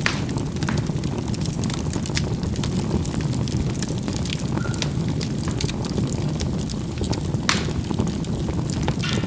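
Charcoal burning in a fireplace: a steady low rush of fire with scattered crackles and small pops, and one sharper pop about seven and a half seconds in.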